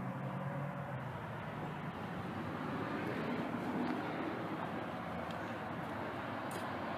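Road traffic: a passing vehicle's engine hum fading out about a second in, then a steady rush of tyres and traffic noise.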